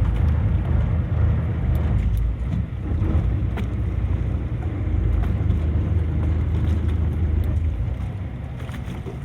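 Fishing boat's engine running with a steady low rumble, with wind on the microphone; it eases off a little near the end.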